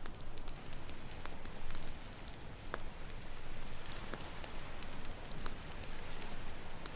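Campfire crackling: sharp, irregular pops and snaps of burning wood over a steady wash of ocean waves.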